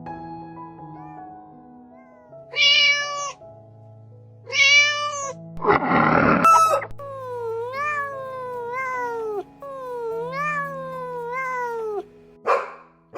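Cat meowing repeatedly in drawn-out calls that rise and fall in pitch, over background music.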